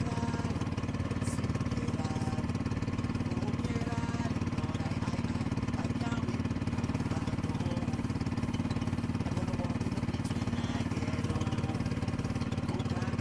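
Boat engine running at a steady speed.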